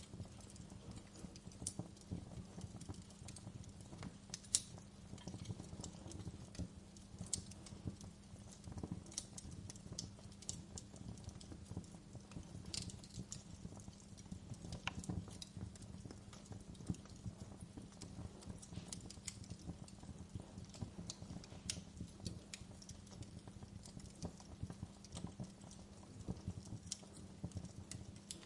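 Wood fire burning in a fireplace: a steady low rumble with constant irregular crackles and snaps, and one louder pop about four and a half seconds in.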